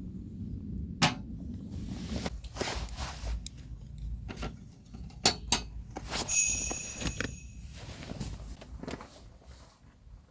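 A run of sharp clicks and knocks, like objects being handled, with a short metallic clink that rings for about a second, about six seconds in.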